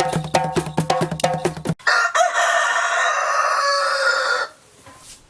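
Drum and percussion music that cuts off abruptly a little under two seconds in, followed by a rooster crowing once, a call of about two and a half seconds.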